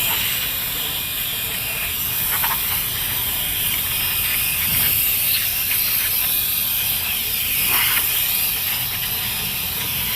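Steady hiss of a pressurised spray cleaning a car's engine bay.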